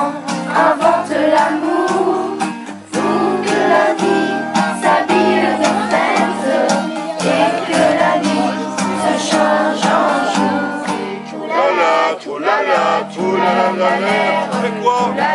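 A group of voices singing a French song together, accompanied by a strummed guitar.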